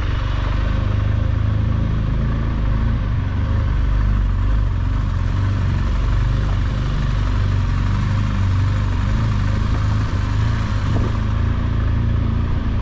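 BMW R1200GSA's flat-twin boxer engine running steadily under way, with wind and road noise. The level holds even throughout.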